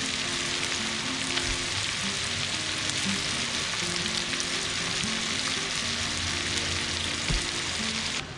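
Squid and garlic frying in hot oil in a wok: a steady sizzle that cuts off sharply just before the end.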